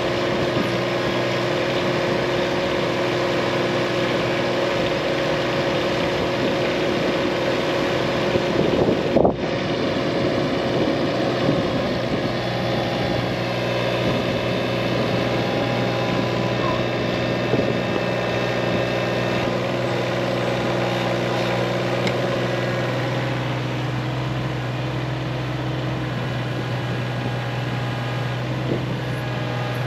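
Diesel engine of a 1.7-tonne Case mini excavator running steadily while it digs, its tone shifting about two-thirds of the way through.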